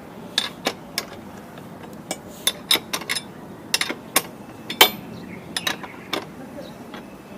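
A spanner working loose a tight motorcycle rear axle nut: sharp, irregular metal clicks and clinks, about fifteen of them, some close together in quick pairs.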